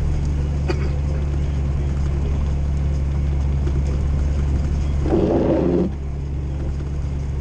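Steady low drone of an old Jeep's engine and tyres, heard from inside the cab while driving on a snowy road. A brief louder rough noise comes in about five seconds in.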